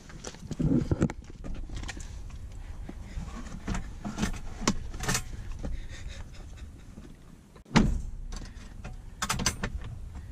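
Clicks, knocks and rattles of a pet carrier being handled and set in place at a car, with one louder thump about three-quarters of the way through, over a steady low rumble.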